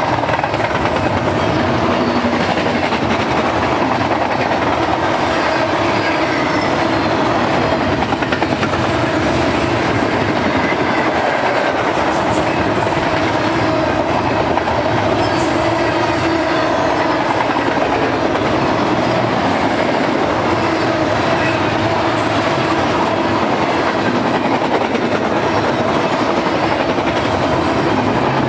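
Double-stack container well cars of a long intermodal freight train rolling past: a steady, unbroken noise of steel wheels on rail.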